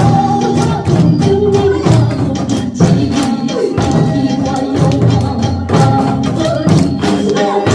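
Trot music playing with janggu (Korean hourglass drum) strokes beaten along in rhythm, sharp drum hits over a melody and backing.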